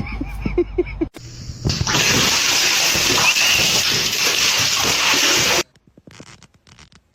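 A loud, steady rush of running water for about four seconds that cuts off suddenly. It is preceded by a few short animal cries in the first second.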